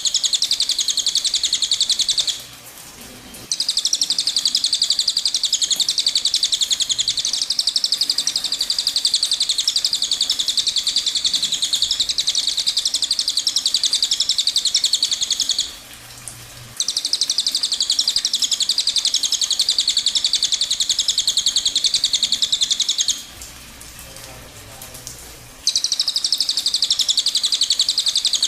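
Cililin bird singing its 'tembakan' song: a dense, very rapid, high-pitched trill held for many seconds at a time, broken by three short pauses.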